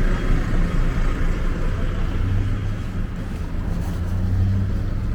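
City street traffic: a motor vehicle's engine running with a steady low hum over the general noise of the street.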